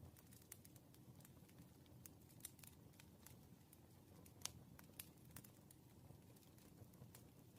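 Firewood fire crackling faintly, with irregular small pops and one sharper pop about four and a half seconds in, over a low steady rumble.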